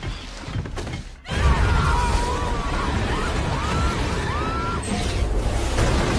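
Action-film sound mix: a sudden loud crash about a second in, then a dense rushing roar with several people screaming over it.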